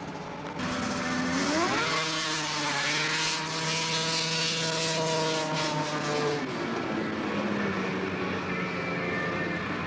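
Racing snowmobile's two-stroke engine revving up sharply about a second and a half in, holding high revs steadily for about four seconds, then dropping off about six seconds in to a lower running note.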